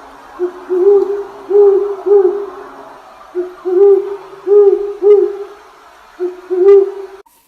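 An owl hooting: a run of short, arched, low hoots in groups of two to four, over a steady background hiss. The sound cuts off abruptly near the end.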